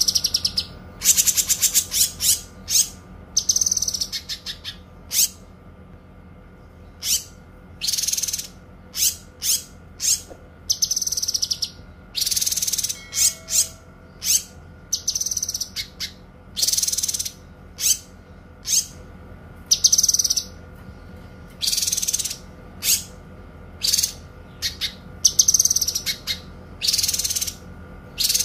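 A caged kinoi songbird singing loud, very high, clear phrases in short repeated bursts, a second or two apart. These are the 'tembakan panjang' (long shots) that bird keepers prize. A faint steady hum runs beneath.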